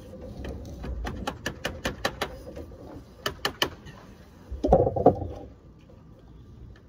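Code 5 sheet lead being dressed down over an edge with a hand tool: a quick run of sharp taps, about four a second, then three more. About five seconds in comes a louder, longer knock.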